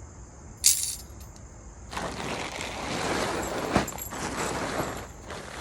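A short metallic clink of metal tent pegs, then a few seconds of loud rustling and crinkling as nylon tent fabric is pulled out and handled, with a knock partway through.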